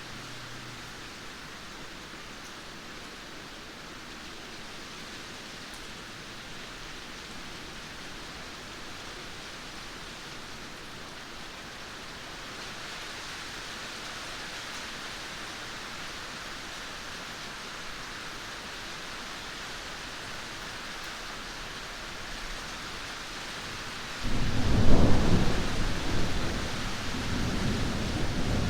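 Steady rain falling, then near the end a sudden loud thunderclap that rolls on as a low rumble.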